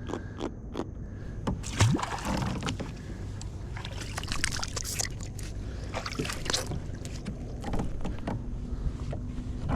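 Irregular knocks, scrapes and water noise on a fishing kayak, with a steady low background.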